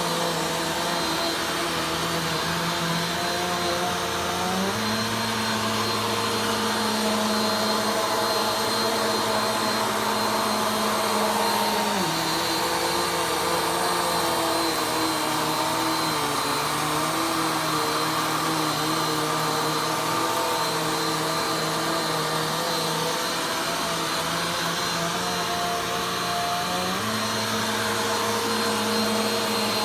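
Vacuum cleaner running steadily through a slow vacuuming pass, its motor hum stepping up in pitch about five seconds in, dropping back about twelve seconds in, and stepping up again near the end.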